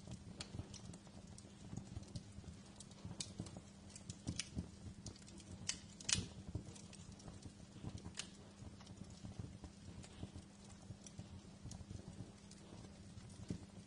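Wood fire crackling in a fireplace: irregular snaps and pops over a low steady rumble, with one louder pop about six seconds in.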